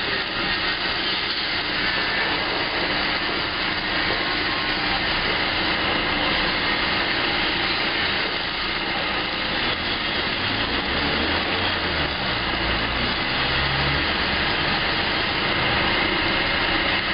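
Machinery running steadily, a loud even hiss with faint steady whining tones, and some low rumble swelling about two thirds of the way through.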